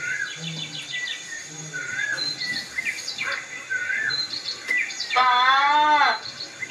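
Birds chirping: short, repeated chirps that rise and fall. About five seconds in, a loud drawn-out voice holds one call for about a second, its pitch rising and then falling.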